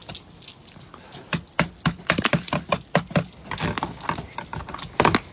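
Ice glaze on a car being chipped with a metal spike: a quick, irregular run of sharp knocks and cracks that grows dense about a second in, with two harder strikes near the end.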